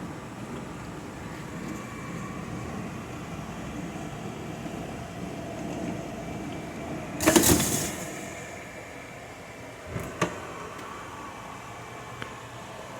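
A steady machine hum from a running household appliance. About seven seconds in comes a sudden loud clatter, then two sharp clicks about three seconds later and one faint click near the end.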